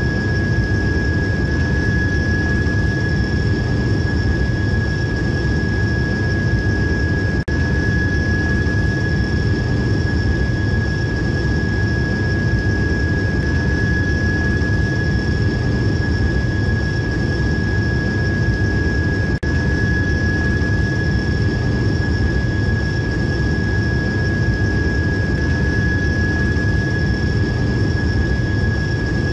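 Train running steadily: a continuous low rumble with a steady high-pitched whine over it, dipping briefly twice.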